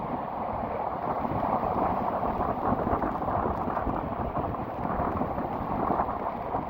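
Rough sea surf and rain in a strong wind: a steady rushing noise with a low rumble, the wind buffeting the microphone.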